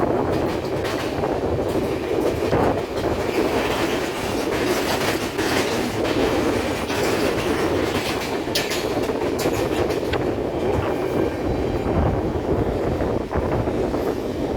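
Passenger train running along the track: a steady rumble with scattered clicks and clanks from the wheels over rail joints.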